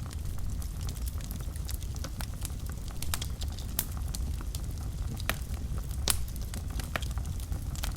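Wood fire burning in a fireplace: a steady low rumble of the flames with frequent sharp, irregular crackles and pops, one louder pop about six seconds in.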